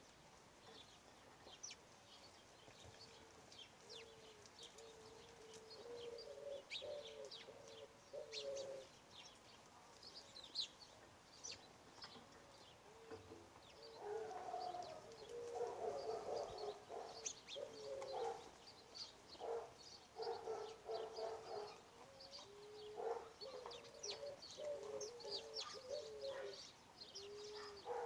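Birds calling: a series of low, wavering calls repeating over and over, mixed with many short, high chirps from smaller birds. The calls grow busier and louder in the middle.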